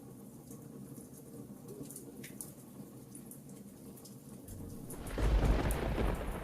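Wood fire crackling with small scattered pops, then about five seconds in a loud, deep roll of thunder sets in.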